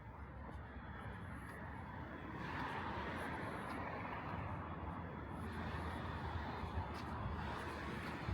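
Steady rushing noise of a vehicle with a low rumble, swelling about two and a half seconds in and holding.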